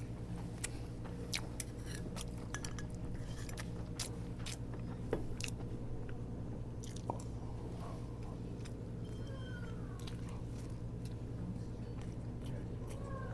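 Close-up chewing and small mouth sounds of someone eating, with scattered soft clicks, over a steady low hum.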